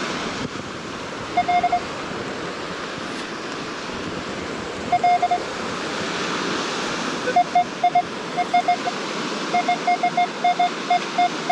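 Metal detector giving short, same-pitched beeps over a buried target, a few at first and then a quick repeated string near the end, as it closes in on a coin (a dime) in the sand. Steady surf and wind noise runs underneath.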